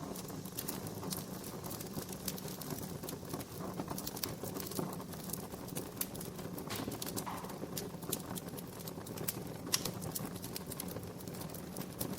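Wood fire crackling, with irregular sharp pops and snaps over a steady low hiss of burning.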